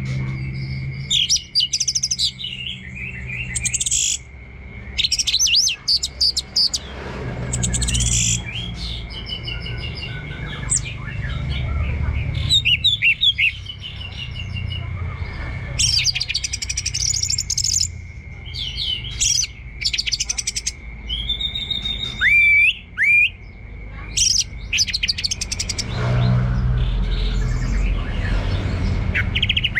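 Orange-headed thrush singing a long, rambling 'teler' song: varied whistles, chirps and fast strings of clicking notes, with quick rising and falling phrases.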